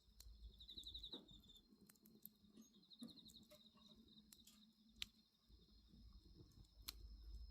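Faint bonfire crackle, with scattered sharp pops of burning wood and two louder pops in the second half. Crickets trill steadily behind it.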